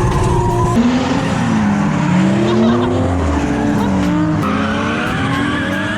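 Drift car engines revving up and down, with tyre squeal. The sound changes abruptly about a second in and again past four seconds.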